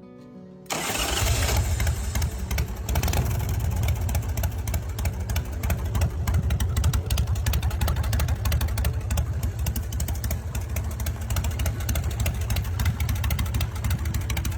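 V-twin motorcycle engine running, the 113-cubic-inch S&S in a 2004 Bourget Black Jack Ace chopper, with a deep, rapid exhaust pulse. It cuts in abruptly about a second in and holds steady.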